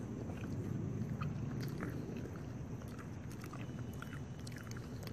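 A person chewing a mouthful of breaded, glazed chicken tender, with scattered small clicking mouth sounds, over a steady low background noise.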